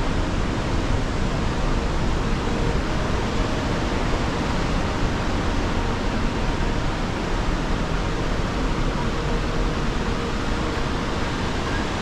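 Merced River rushing water: a loud, steady wash of noise with no change.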